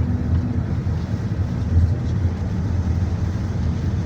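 Steady low rumble of a GAZelle Next minibus driving, heard from inside the passenger cabin.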